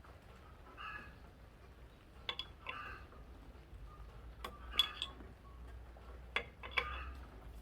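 Irregular light metallic clicks and clinks, about a dozen over several seconds, from hand tools and parts being handled during forklift engine reassembly.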